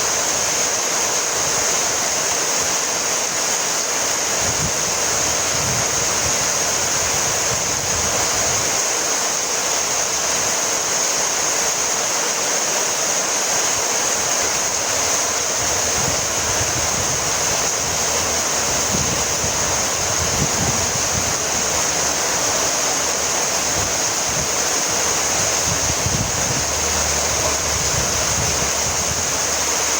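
Heavy rain falling steadily, a dense even hiss that holds at one level throughout.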